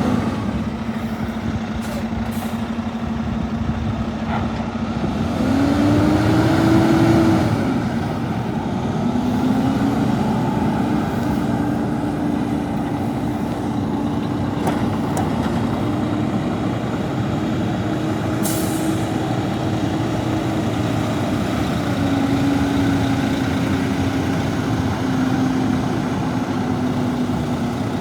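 Cummins X15 six-cylinder diesel in a Volvo VNL truck tractor running at idle, with one brief rev that rises and falls about a fifth of the way in. A short hiss of air comes about two-thirds of the way in.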